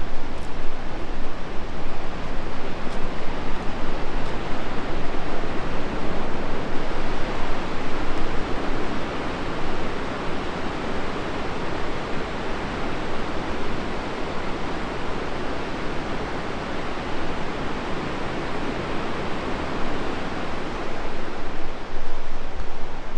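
Steady rush of river whitewater or a waterfall, an even roar that dips slightly midway and swells again near the end.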